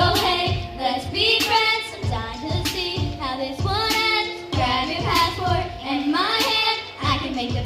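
High voices singing a song over recorded backing music with a steady beat.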